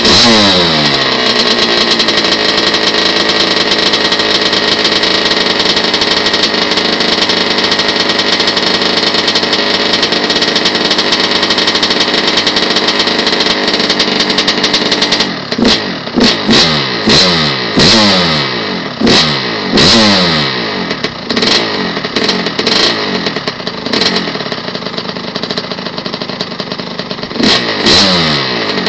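Kawasaki KX100 two-stroke dirt bike engine, with an FMF Gold Series expansion chamber and Powercore 2 silencer, running as it warms up. Its revs fall back at the start and it holds a steady speed for about fifteen seconds, then the throttle is blipped about a dozen times in quick succession before it settles lower, with two more blips near the end.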